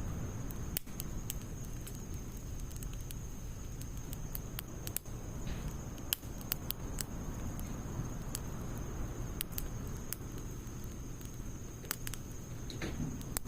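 Wood fire of split logs and pine needles crackling in a fire pit: scattered sharp pops and snaps, a few every second, over a low steady rustle of the burning.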